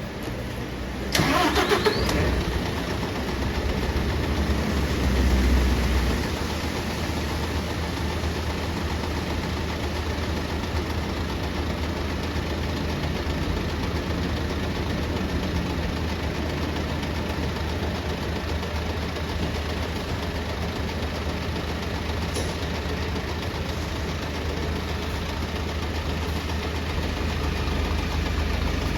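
A city bus engine cranked and started about a second in, running louder for a few seconds before settling into a steady idle.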